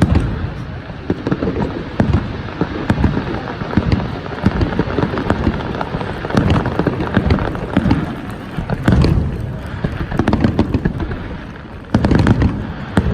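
Fireworks display: a continuous barrage of bangs and crackling explosions, with heavier clusters of bursts about two seconds in, around nine seconds, and near the end.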